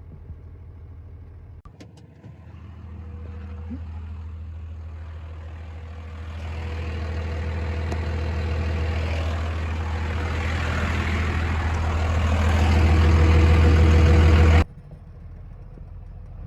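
Old truck's engine running and pulling harder, getting steadily louder over about twelve seconds as it builds speed for a run at rough off-road ground. Near the end the sound cuts off suddenly to a quieter engine hum.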